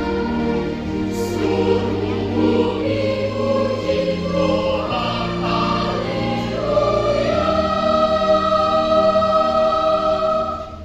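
A children's school choir singing a hymn over a steady low instrumental accompaniment. About two-thirds of the way in they settle onto a long held final chord, which cuts off near the end.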